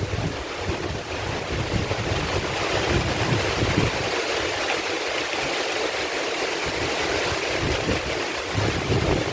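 Heavy rain falling steadily in a forest, with irregular low rumbles of wind buffeting the microphone.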